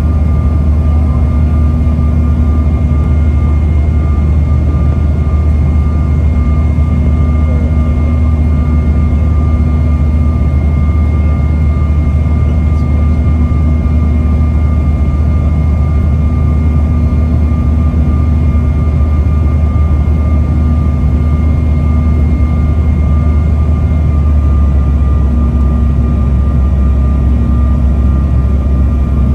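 Airliner cabin noise in flight during the approach: a steady, loud low rumble of engines and airflow with a constant high whine on top. Near the end the whine drops slightly in pitch.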